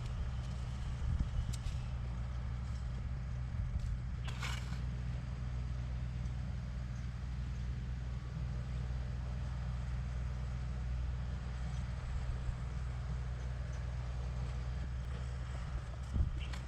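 An engine or motor running steadily with a low hum. There is a brief higher-pitched sound about four and a half seconds in, and a few clicks near the end.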